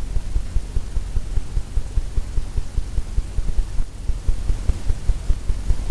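Oil-paint brush tapping against a canvas on an easel: a quick, steady run of dull low thumps, several a second, as paint is dabbed into the clouds.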